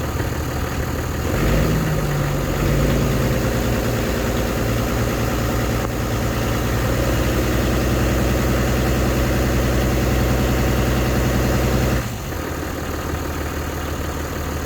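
Toyota 1HD-FTE 4.2-litre turbo-diesel idling steadily shortly after a cold start. The note rises briefly about a second and a half in, and it drops to a quieter, lower sound about twelve seconds in.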